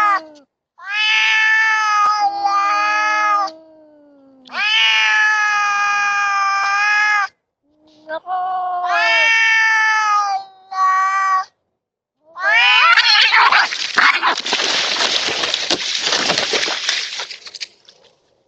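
Cats caterwauling in a standoff: four long, drawn-out yowls with pauses between, then a loud, harsh outburst of screeching and hissing noise lasting about five seconds that starts a little after the yowls stop.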